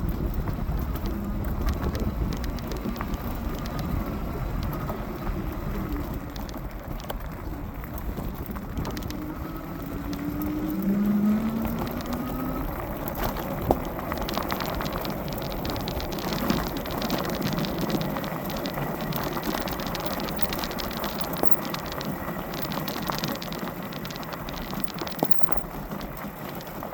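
Fat-tyre e-bike riding on wet pavement: wind on the microphone and tyre hiss, with the dual motors' whine rising in pitch about ten seconds in, and scattered ticks later on.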